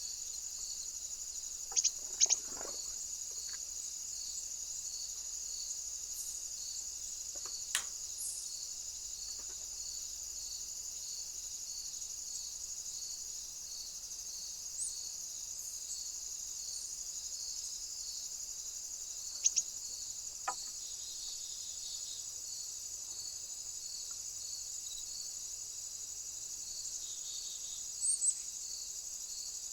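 Steady, high-pitched, evenly pulsing chorus of crickets or bush crickets, with a few brief sharp sounds standing out above it, two of them in quick succession about two seconds in.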